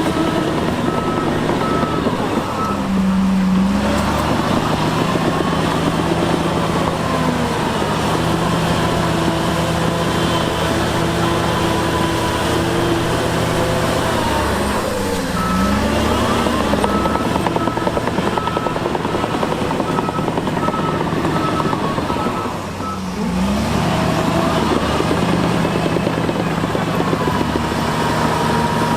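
Heavy earthmoving machine's diesel engine running under load, its pitch dipping and picking back up three times, with a reversing alarm beeping rapidly and evenly at the start and again through the middle as the machine backs up.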